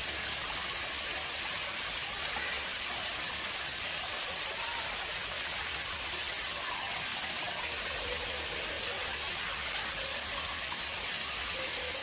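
Water flowing steadily into an artificial pond: a constant, even splashing and trickling with no breaks.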